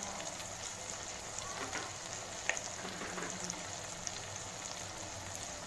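Onion-tomato masala frying in hot sesame oil in a pan: a steady, gentle sizzle with faint crackling and a few light clicks.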